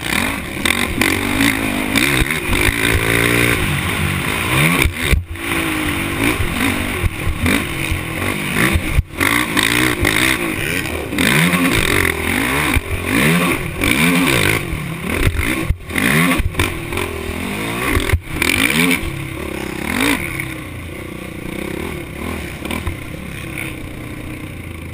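Motocross bike engine revving up and down hard, its pitch rising and falling over and over, with a few brief sharp cut-outs. It runs steadier and a little quieter over the last few seconds.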